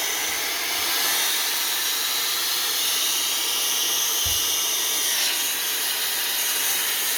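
Steady hiss of a directed spray jet blown into a typewriter's works to clear out deep-seated grime, holding at an even level for several seconds.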